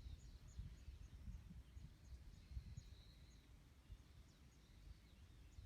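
Faint birdsong over a low rumble of wind: a run of short high chirps, with a thin trill about halfway through.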